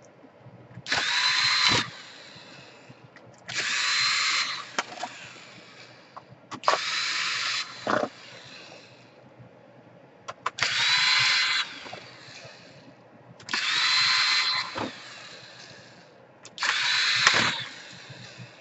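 Electric screwdriver run in six short bursts of about a second each, roughly one every three seconds, its motor whine rising at each start and falling at each stop: driving screws on a laptop one after another.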